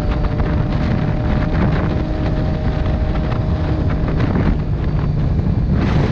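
Motorcycle engine running at a steady speed while riding, under heavy wind noise buffeting the microphone.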